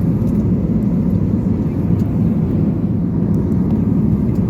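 Airbus A320neo cabin noise in flight: a steady, deep rush of airflow and engine noise that does not change.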